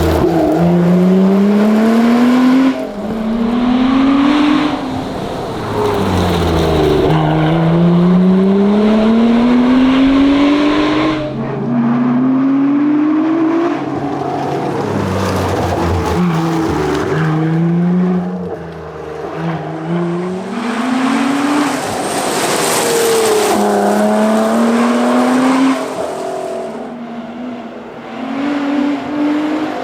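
Lotus Exige 410 Sport's supercharged 3.5-litre V6 driven hard. Its note repeatedly climbs in pitch under full acceleration, then drops back at gear changes and on lifting off and braking between bursts.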